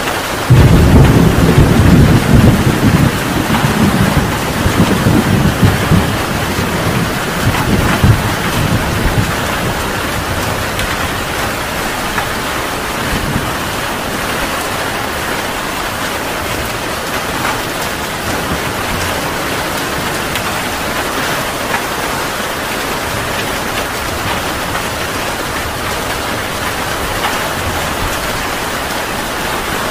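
Heavy rain falling steadily, with a thunderclap about half a second in whose low rumble rolls on for several seconds and fades away. The rain continues evenly after the thunder dies out.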